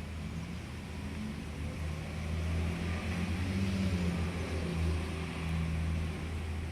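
Steady low hum of a running engine or motor, growing a little louder about two seconds in and easing off near the end.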